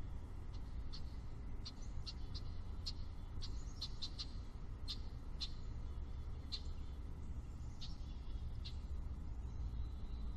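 Songbirds chirping: a run of short, high chirps, thickest in the middle, over a steady low rumble.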